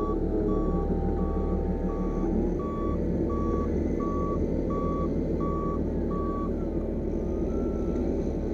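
Heavy machine's reversing alarm beeping at one steady pitch, about three beeps every two seconds, stopping about six seconds in, over the steady running of the machine's engine.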